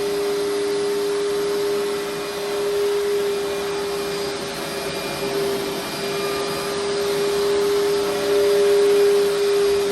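Upright carpet cleaner running steadily over carpet, its motor giving a constant hum with a steady pitched whine.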